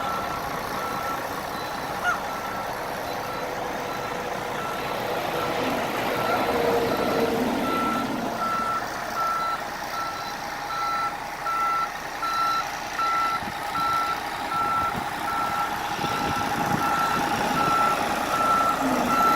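Backup alarm on an MCI D4500 coach beeping about once a second as it reverses, over the bus's diesel engine running.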